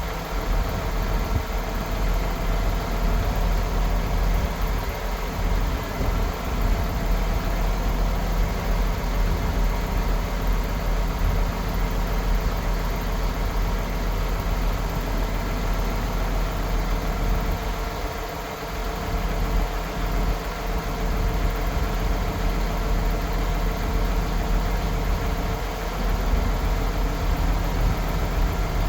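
MAN TGS 26.460 truck's 12.4-litre straight-six diesel idling steadily.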